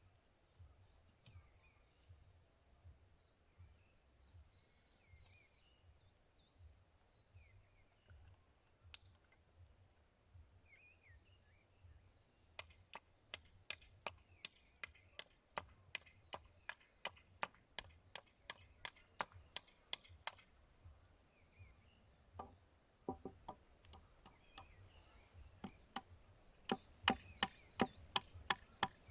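Birds chirping, then a hammer striking wood in a steady run of blows, about two or three a second. The blows pause briefly and start again near the end.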